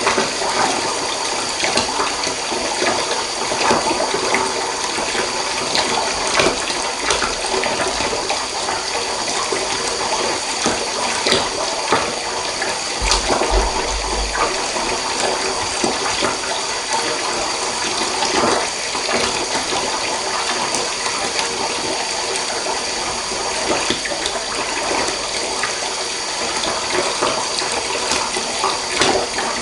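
Water running steadily from a tap into a bathtub, an even splashing rush with small crackles.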